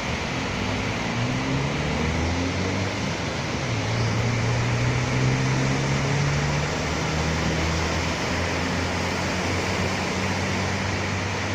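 Steady rain falling on a city street with the low hum of a passing motor vehicle's engine, which grows louder toward the middle and then eases off.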